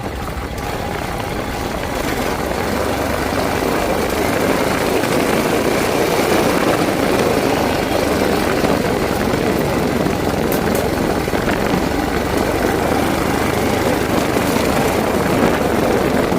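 Motorcycle running under way, its engine sound mixed with steady wind rush on the microphone, growing louder over the first few seconds and then holding steady.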